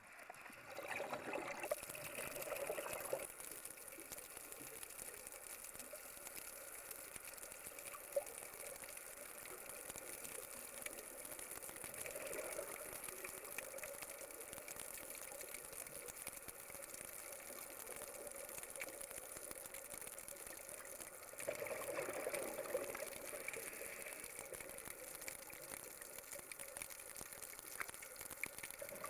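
Water gushing and bubbling steadily, with three louder surges: about a second in, about twelve seconds in, and a longer one about twenty-two seconds in.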